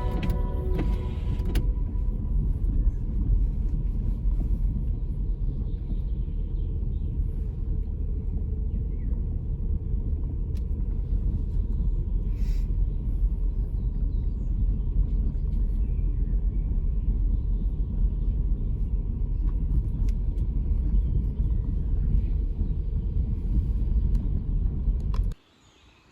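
Subaru car driving: a steady low road and engine rumble that cuts off abruptly near the end.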